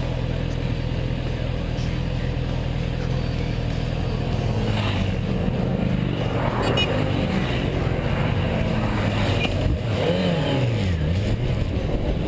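Motorcycle engine running under way at steady revs. About ten seconds in the revs drop and then climb again.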